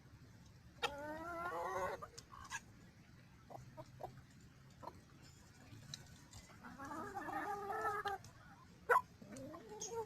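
Chickens calling: two drawn-out, wavering calls about a second long each, among scattered small clicks, with a sharp click near the end.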